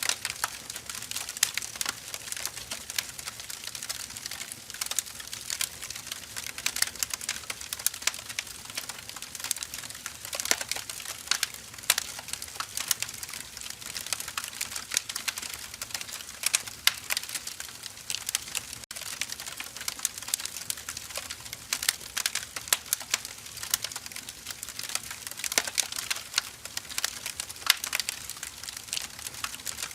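Wood fire crackling: a dense, irregular stream of small snaps over a soft hiss, with scattered louder pops.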